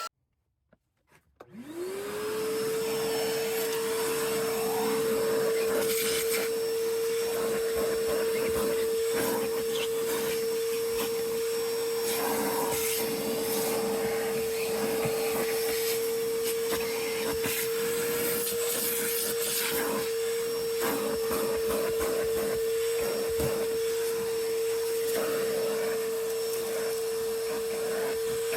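Vacuum cleaner switched on about a second and a half in, its motor spinning up quickly to a steady whine, with irregular scraping and knocking as the nozzle is worked over the truck's interior.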